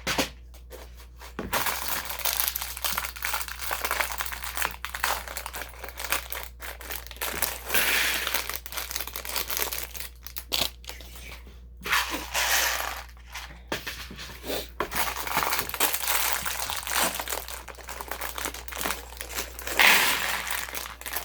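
Plastic LEGO parts bags crinkling as they are handled and torn open, with small plastic bricks clicking and clattering against each other.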